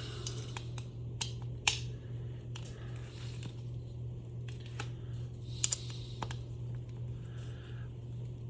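Screws being tightened down on a tape-recorder spooling motor by hand with a screwdriver: scattered small clicks and scrapes of tool and metal, the loudest a little under two seconds in, over a steady low hum.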